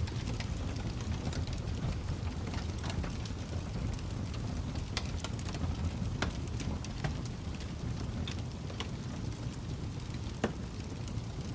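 Wood fire crackling with scattered irregular pops, one sharper pop about ten seconds in, over a steady low rumble of snowstorm wind.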